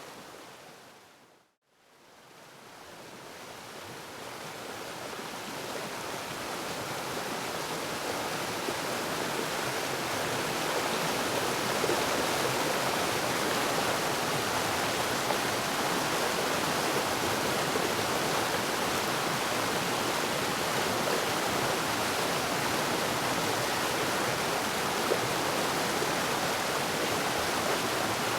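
Waterfall water rushing in a steady, even roar. About a second and a half in it fades out to silence, then swells gradually back to full level over the next several seconds.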